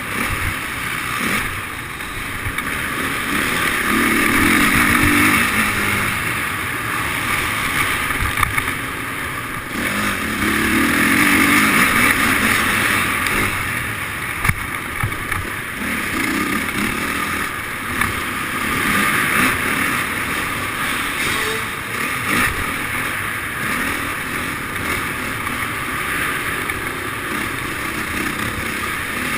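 Motocross dirt bike engines running and revving, the sound swelling several times as the throttle opens and easing off between.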